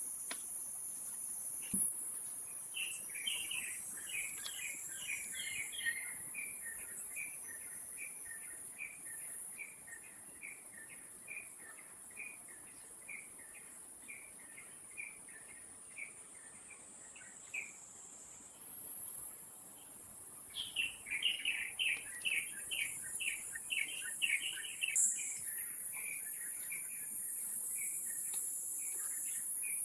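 A bird calling in two long runs of quick repeated notes, about three a second. The first run fades away about fifteen seconds in and the second starts strongly around twenty seconds in, over a steady high-pitched insect drone.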